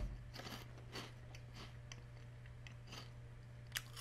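A person chewing a mouthful of Andy Capp's Hot Fries, a hard, dry corn and potato snack, making faint, irregular crunches.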